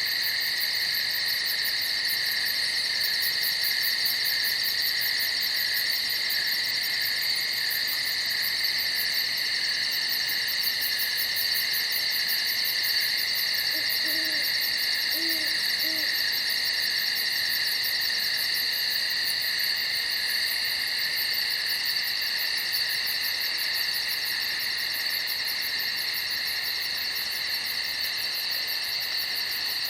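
Night chorus of crickets chirping steadily in several overlapping layers, one of them a very high, fast pulsing trill. About halfway through, three faint short low calls sound once.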